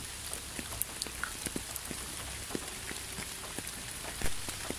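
Steady rain with many individual drops pattering. A single louder, low thump comes near the end.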